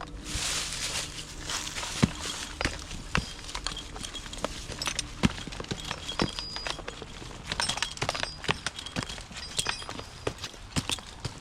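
Repeated sharp knocks at an uneven pace, about one or two a second, the sound of a tree climber's spikes and boots striking the trunk, with a brief scratchy rustle in the first couple of seconds.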